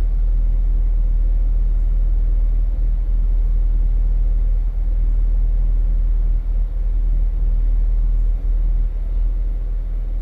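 Off-road vehicle's engine running, a steady low rumble.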